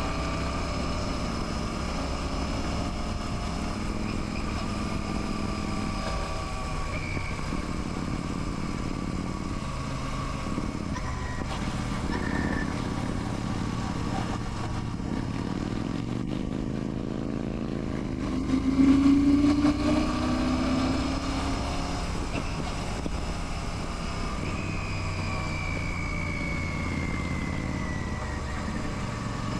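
Royal Enfield Classic 650's parallel-twin engine running steadily while riding. Its pitch dips and then climbs about two-thirds of the way through as the revs rise, and it is loudest there.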